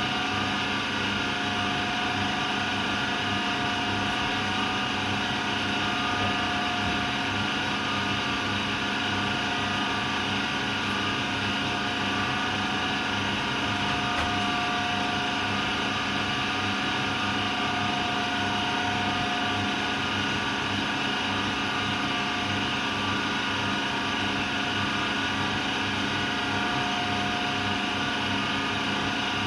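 AEG Lavamat Turbo washer-dryer running steadily through its cycle, a continuous motor whine made up of several fixed tones, one of which swells and fades.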